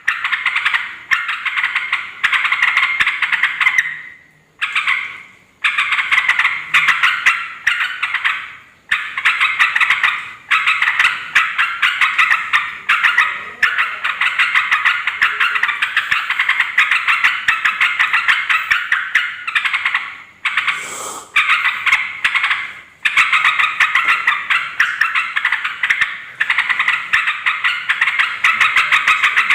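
Yellow-vented bulbul (trucukan) calling noisily: fast, chattering phrases of bubbly notes a few seconds long, repeated with short pauses between them.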